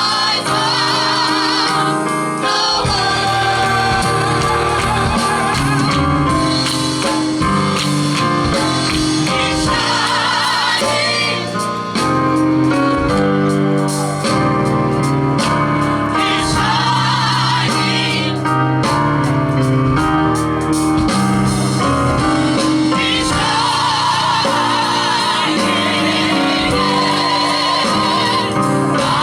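Gospel group singing with instrumental accompaniment: several voices with vibrato over a steady bass and keyboard backing.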